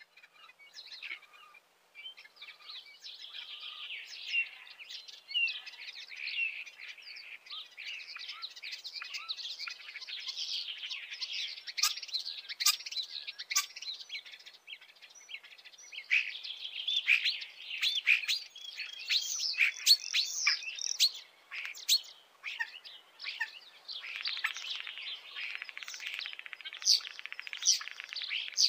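Common starling singing: a fast, varied run of whistles, clicks and chatter with a couple of brief lulls.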